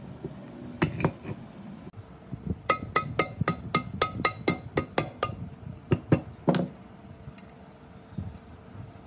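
Metal struck repeatedly, about four sharp ringing taps a second for a couple of seconds, with a few single knocks before and after: metal-on-metal tapping during work on a concrete mixer gearbox.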